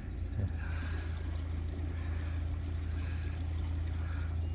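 Narrowboat's diesel engine running steadily with a low, even hum while the boat is manoeuvred.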